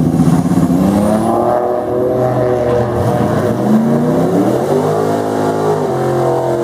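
Drag race car's engine at full throttle down the strip, its pitch climbing, dropping back at a gear change about three seconds in, then climbing again.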